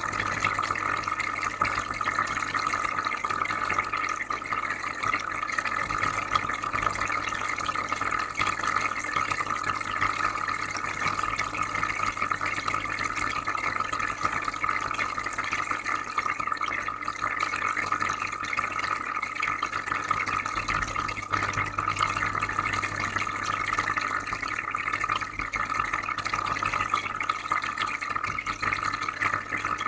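Aquarium filter running: steady bubbling, trickling water over a low, even hum.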